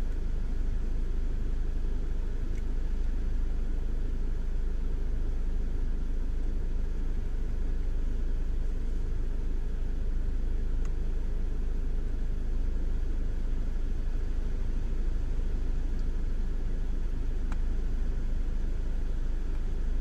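Steady low engine rumble at idle, heard from inside a stationary vehicle's cabin.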